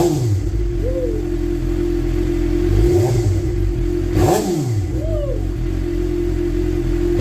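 2012 Suzuki GSX-R750 inline-four idling through a newly fitted M4 slip-on exhaust, with short throttle blips that rise and fall back to idle, the strongest about four seconds in.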